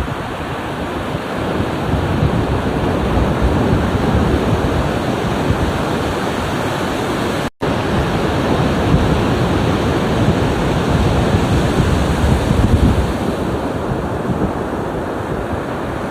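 Ocean surf washing and breaking, a steady rush that swells and eases as waves come in. The sound cuts out completely for an instant about halfway through.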